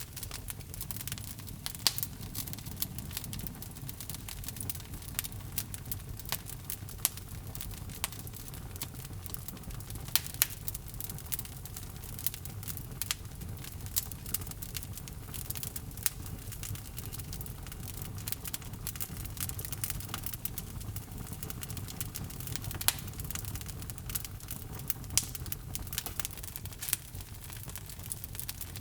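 Wood log fire in a fireplace crackling, with irregular sharp pops over a steady low rumble of the flames. A few louder pops stand out, about two seconds in, twice in quick succession around ten seconds, and again near 23 and 25 seconds.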